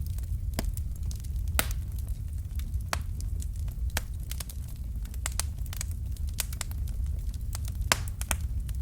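Wood fire burning with irregular sharp crackles and pops over a steady low rumble of the flames; the loudest pops come about one and a half seconds in and near the end.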